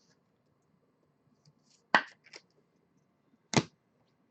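Two sharp snaps about a second and a half apart, with a softer click just after the first, from trading cards being handled and flicked through a stack.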